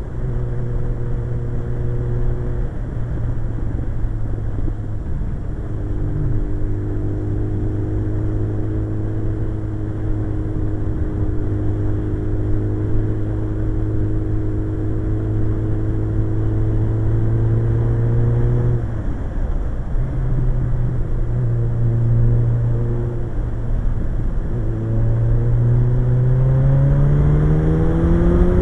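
Suzuki GSX-R1100's inline-four engine running at a steady cruising speed, its note dropping and changing briefly about two-thirds of the way in, then rising steadily near the end as it accelerates.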